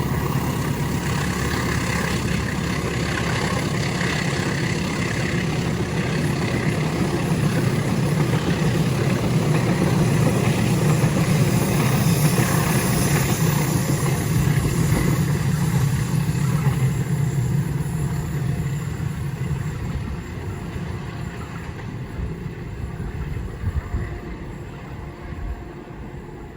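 Diesel locomotive hauling a long train past, its engine running steadily under a rumble of wheels on the rails, fading away over the last several seconds with a few sharp knocks near the end.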